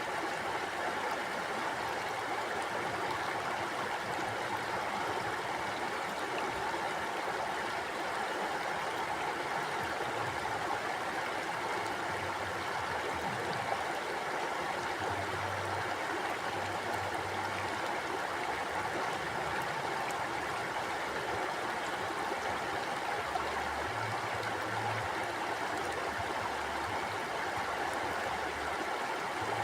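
Mountain stream flowing, a steady rush and gurgle of water over rocks.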